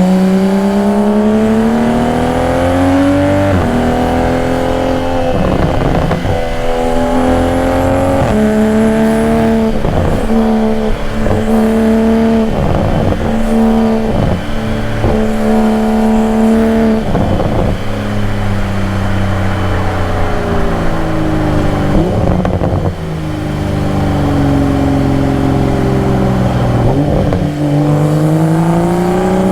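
2022 Toyota Supra's engine and exhaust pulling hard through the gears: the pitch climbs and then drops sharply at each upshift, several times in quick succession. Midway the pitch falls as the car slows, then it climbs again under acceleration near the end.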